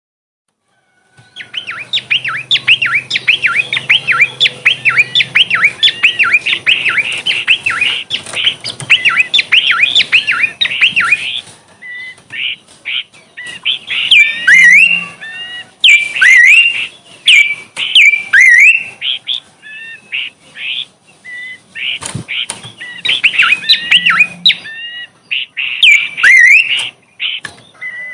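A small songbird singing: a fast, dense run of chirping notes for about ten seconds, then shorter whistled phrases separated by brief pauses.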